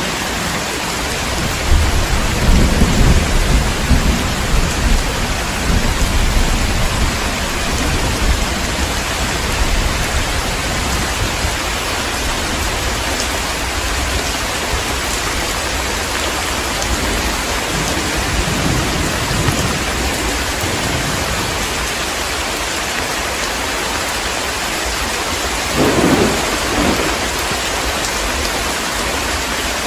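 Heavy rain falling steadily, with thunder rolling in a low rumble for several seconds near the start and a shorter clap of thunder about 26 seconds in.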